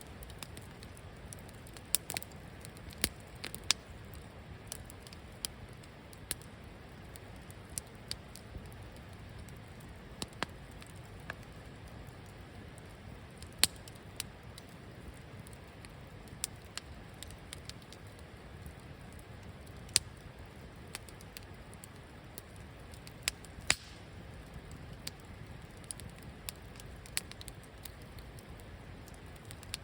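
Campfire burning steadily with a low rush, crackling with sharp, irregular pops from the burning wood, a few of them loud.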